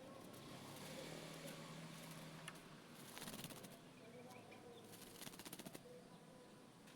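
Faint, rapid fluttering of a small bird's wings: an oriental magpie-robin shaking and fluttering its feathers in two short bursts, about three and five seconds in.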